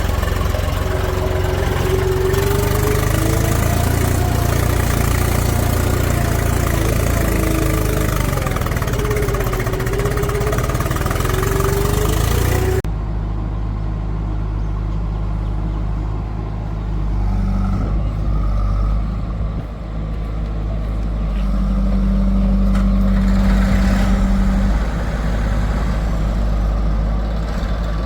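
Heavy diesel machinery running, its engine pitch wavering up and down under load. About halfway through the sound changes abruptly to a quieter, lower engine running, which swells again a few seconds before the end.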